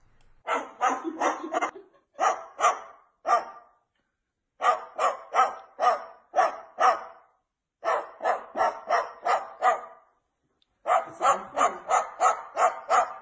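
A bird imitating a dog's bark: short barks in bursts of three to six with brief pauses, turning into a steady run of about three barks a second near the end.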